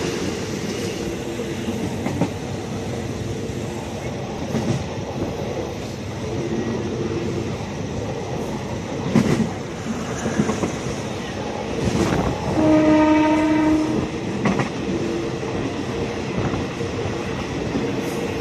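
Diesel passenger train running on the rails, wheels clicking over the rail joints, with a locomotive horn giving one long blast about two-thirds of the way through.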